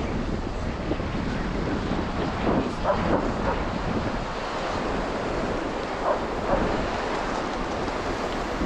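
Ocean waves breaking and washing up on a sandy beach, with wind buffeting the microphone.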